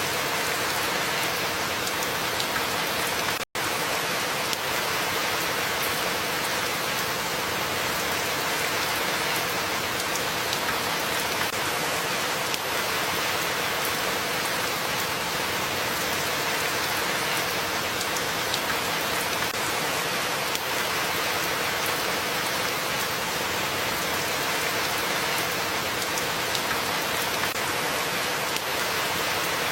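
Steady rain, an even hiss of falling drops. About three and a half seconds in, the sound cuts out for a split second and then comes straight back.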